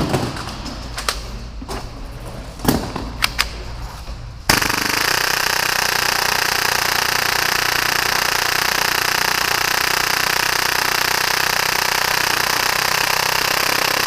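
Full-auto Tokyo Marui Hi-Capa airsoft pistol tuned to about 30 rounds per second: a few scattered clicks, then about four and a half seconds in a long unbroken burst of fire starts, the shots running together into a steady rattle.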